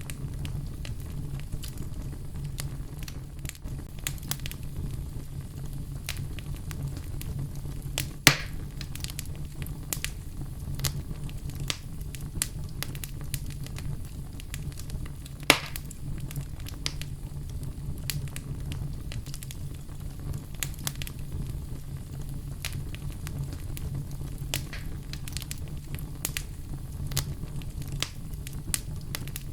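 Wood fire crackling in a fireplace: a steady low rumble of the flames under a constant scatter of small crackles, with two louder pops about eight and fifteen seconds in.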